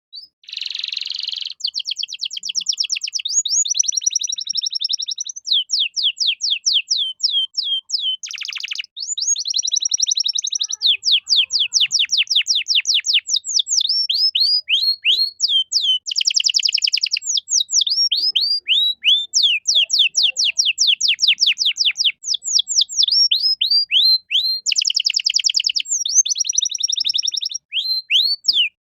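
Domestic canary singing a long, continuous song: runs of quick repeated falling notes at about five a second, alternating with fast buzzy trills.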